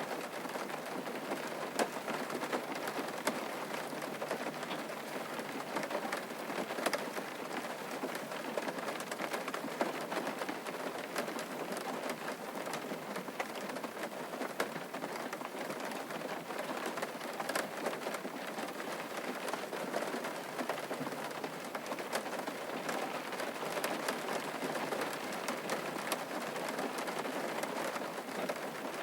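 Steady rain falling on a surface, with many separate drops ticking through the hiss.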